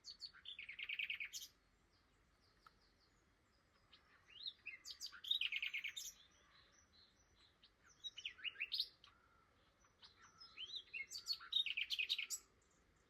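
Common nightingale singing: four phrases with short pauses between, each a fast series of repeated notes mixed with quick varied whistles and trills.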